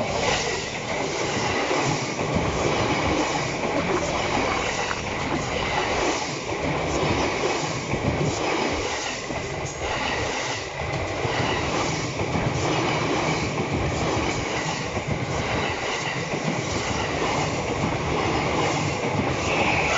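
JR Sobu Line Rapid electric train running past over a level crossing, its wheels clacking in a regular rhythm over the rail joints under a continuous rumble. A thin, steady high-pitched tone rings above it throughout.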